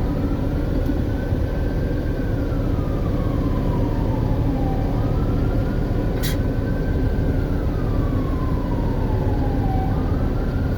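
A distant emergency-vehicle siren in a slow wail, rising, holding and falling twice, over the steady engine and road rumble of a truck cab. A single sharp click about six seconds in.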